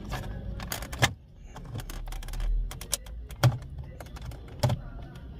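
Plastic clicks and knocks as a Fiat Toro's stereo trim panel is pried with a plastic trim tool and its retaining clips are worked loose, a few sharp snaps scattered among lighter taps.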